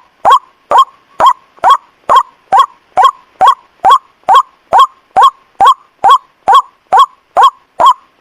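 White-breasted waterhen (ruak-ruak) call, played as a lure: one short, loud note repeated at a perfectly even pace, a little over two a second, each note identical, sweeping up and then dropping back.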